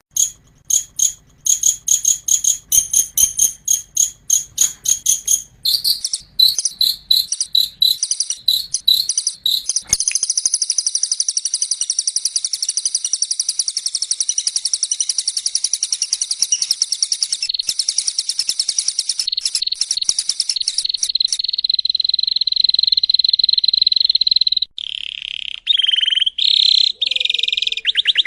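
High-pitched songbird song, played as a recording. Rapid sharp repeated notes run together into a fast continuous trill, then settle into a steady insect-like buzzing trill, with varied notes near the end.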